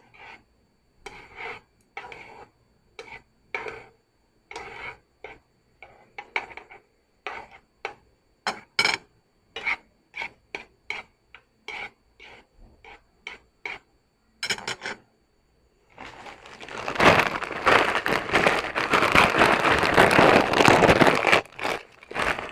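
Utensils clicking and scraping against a bowl in a run of short separate knocks, about two a second. From about sixteen seconds in, several seconds of loud, dense crackling follow.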